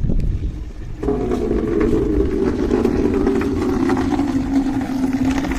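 A small electric motor starts about a second in and runs with a steady hum that sinks slightly in pitch, over low rumble on the microphone.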